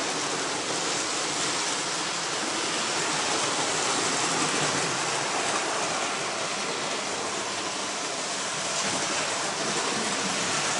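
Several Hornby model trains running round the layout together: a steady, even noise of their motors and wheels on the track.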